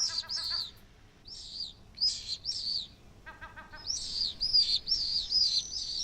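Gull chicks peeping: repeated high, down-arching cheeps in quick runs. A short stuttering run of lower notes comes just after the start and again a little past three seconds.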